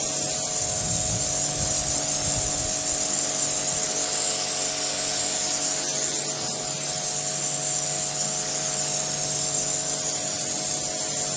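Pressure washer running steadily: the motor and pump hum under the hiss of the water jet spraying sand out of boat carpet.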